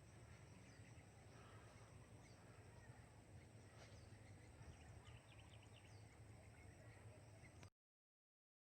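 Faint outdoor ambience: a low steady background noise with scattered small bird chirps. It cuts off abruptly to dead silence near the end.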